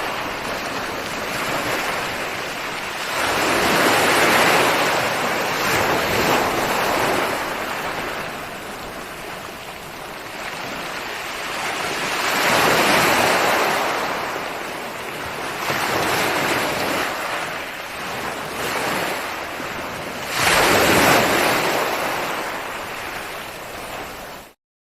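Ocean waves breaking on a shore, a surge of surf every few seconds over a continuous wash of water. The sound cuts off suddenly near the end.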